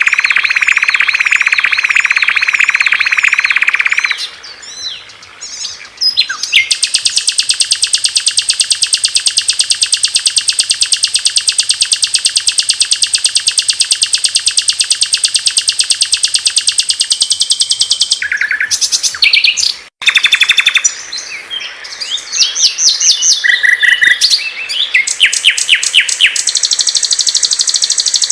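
Songs of several small songbirds in an edited masteran compilation: long, very fast high-pitched trills alternating with quick chirping phrases. The sound breaks off abruptly about 20 seconds in and picks up with a different song.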